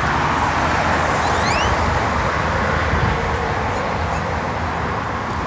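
Car on the move: steady rush of road and engine noise with a low rumble, and a short rising chirp about a second and a half in.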